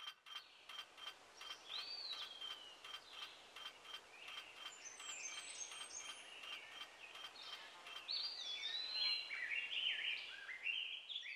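Birds singing in a countryside ambience: a steady run of short chirps, about three a second, with whistled notes that glide up and down over it, and a quick series of falling whistled notes near the end.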